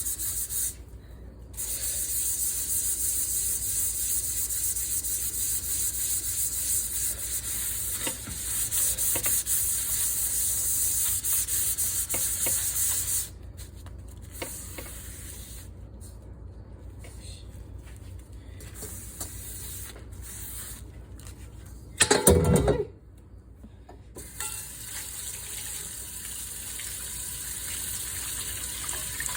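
A pan being scrubbed and rinsed at a sink: a steady hiss of scrubbing or water spray through the first half, then quieter, patchier rubbing. A brief loud knock comes a little past two-thirds of the way in, and steady running-water noise builds near the end.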